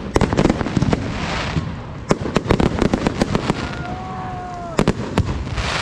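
Fireworks display: a rapid string of sharp bangs and crackles, with hissing bursts about a second in and near the end, and a short whistle falling slightly in pitch about four seconds in.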